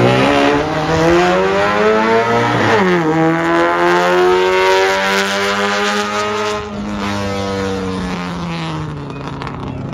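Classic Mini's engine revving hard as it accelerates through a slalom course. The pitch climbs, drops sharply at a shift about three seconds in, and climbs again. It then eases off and fades as the car pulls away.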